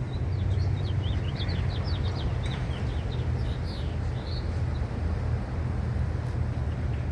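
A bird chirping: a quick run of short, high chirps for the first four seconds or so, then it stops. A steady low rumble runs underneath.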